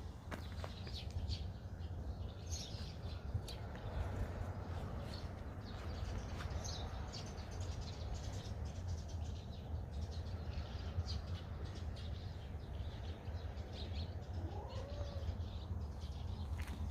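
Small birds chirping on and off over a steady low rumble, with a few sharp clicks.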